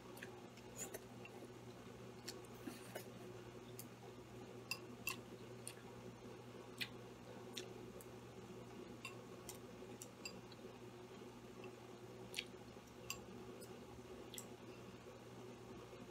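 Faint mouth sounds of eating instant noodles with chopsticks: quiet chewing broken by scattered sharp clicks and smacks, over a low steady hum.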